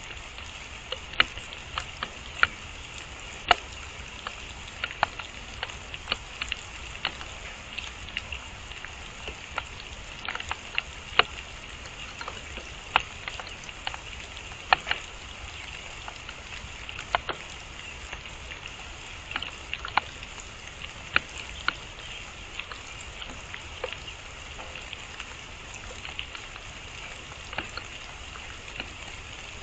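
Rain falling with a steady hiss, with irregular sharp taps of drops striking nearby surfaces.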